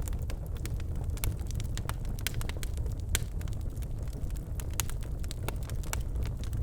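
Birchwood fire burning in a fireplace: a steady low rumble of flames with frequent sharp, irregular crackles and pops, one louder pop about three seconds in.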